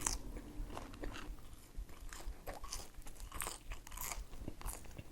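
Close-miked eating sounds: a person biting and chewing food with irregular crunches and mouth clicks.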